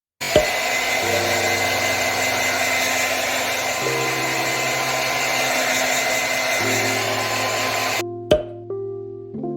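A small electric appliance's motor runs as a steady whir with a thin high whine for about eight seconds, then cuts off suddenly, followed by a click. Soft sustained music chords play underneath.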